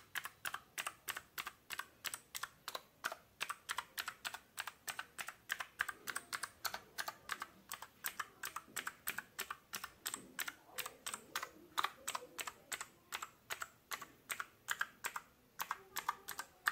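RK61 mechanical keyboard with clicky blue switches, its keys pressed one at a time in turn to test each one: a steady run of sharp clicks, about four a second.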